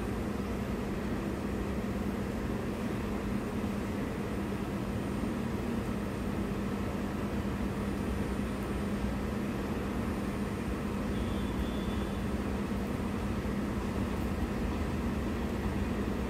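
Train in motion: a steady rumble of running noise with a constant low hum.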